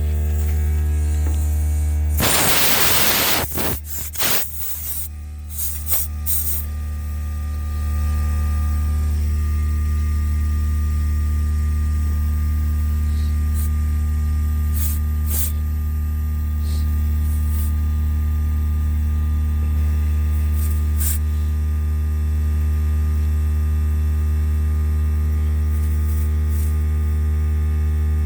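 Air compressor motor running with a steady loud hum. About two seconds in, air hisses loudly for about a second as the tire is being filled, followed by a few clicks. The hum gets a little louder near eight seconds in.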